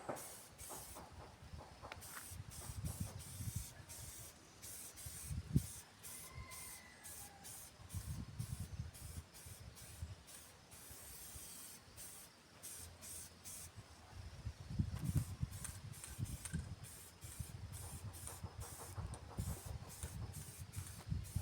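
Paint spraying onto an iron fireplace in many short hissing bursts, with low rumbles several times.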